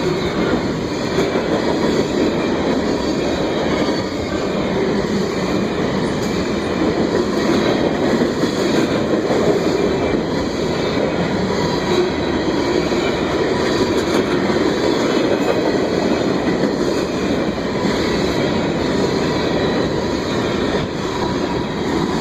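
Train cars rolling past, a loud steady rumble of wheels on rail with no let-up.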